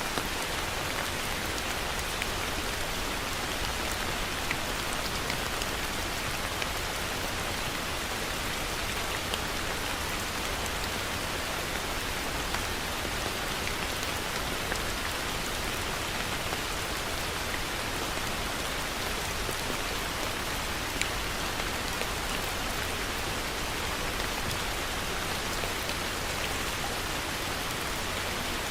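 Heavy rain falling steadily on a surface, a dense even hiss with scattered individual drop taps.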